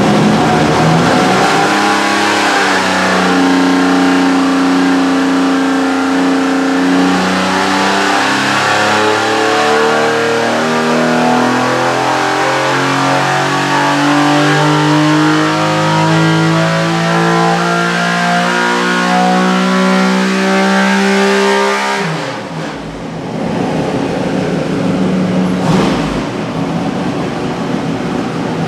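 Buick Grand National V6 race engine running on an engine dyno during break-in, carbureted and running rich. It is held under load while its pitch climbs slowly for about twenty seconds, then the note drops off sharply, leaving a lower rumble.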